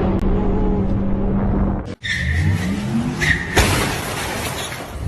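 Car engine running steadily. After a cut, an engine revs up with rising pitch and there is a short high squeal, then a single sudden bang about three and a half seconds in.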